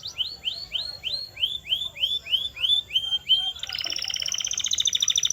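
Canary singing: about eleven repeated high swooping notes, each rising and then dropping, at roughly three a second. Near the end they change to a fast, even rolling trill.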